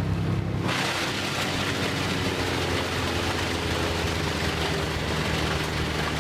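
Engine-driven wood chipper running, with a steady engine note underneath. Less than a second in, a loud, even rushing noise of chipping comes in and continues.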